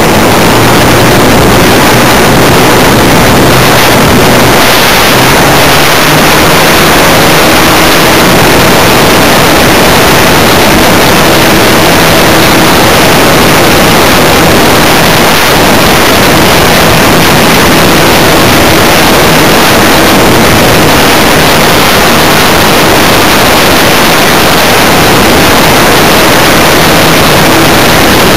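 Funtana S90 radio-control aerobatic plane in flight, heard from a camera mounted on the model: a loud, steady rush of wind over the microphone with a faint engine tone underneath that steps up and down in pitch as the throttle changes.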